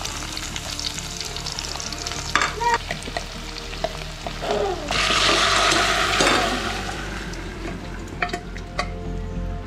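Sliced shallots sizzling in hot oil in a clay pot while a wooden spatula stirs and scrapes them. The sizzle swells loud for about a second and a half, some five seconds in. A few sharp metal knocks near the end, as a steel pressure cooker is tipped over the pot.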